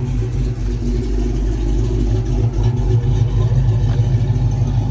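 A car engine running steadily at idle, a low, even rumble.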